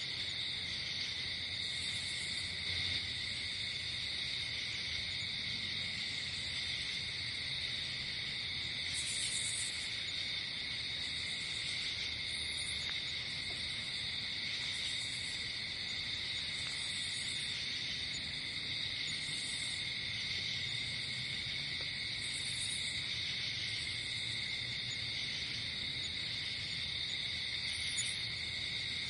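Night insect chorus, crickets and similar insects, trilling steadily, with short high chirp bursts repeating about every two seconds.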